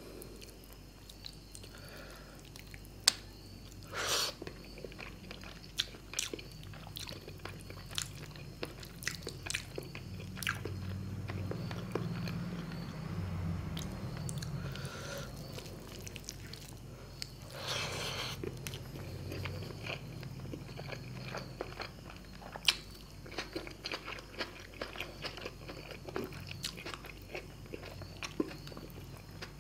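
Close-miked eating of rohu fish curry with rice: wet chewing and biting with many small mouth clicks and the odd sharp click or crunch.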